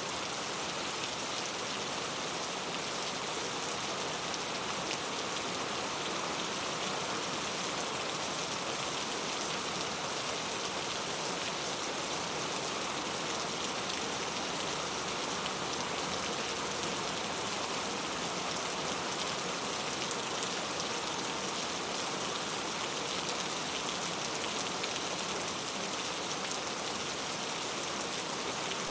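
Steady rain falling, an even unbroken hiss with no pauses.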